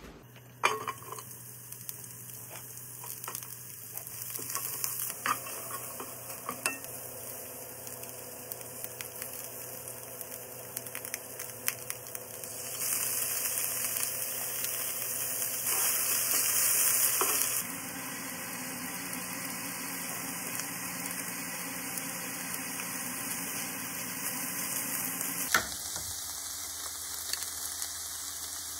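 Shredded cabbage sizzling in a hot frying pan, with scattered clicks and knocks of stirring. The sizzle grows louder for a few seconds in the middle, and there is a sharp knock near the end.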